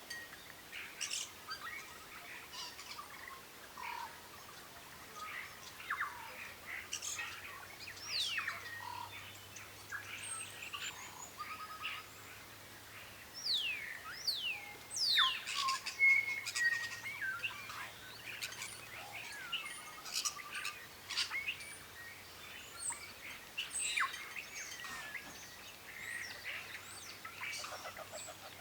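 Several birds chirping and calling, with short notes and quick downward-sliding whistles overlapping, busiest around the middle.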